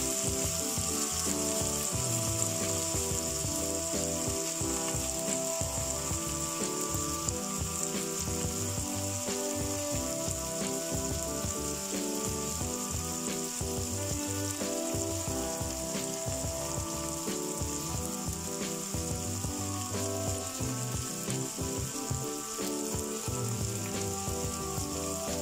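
Chopped onions and green chillies frying in oil in a pot, a steady sizzle, while they are being softened. Background music plays alongside.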